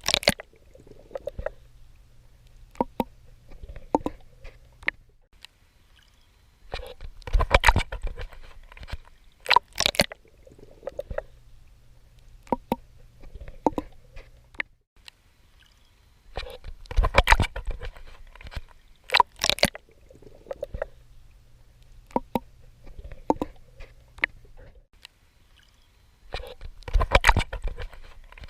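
Water splashing and sloshing from a swimmer's strokes. A cluster of loud splashes comes about every ten seconds, three times, with quieter drips, ticks and lapping water in between.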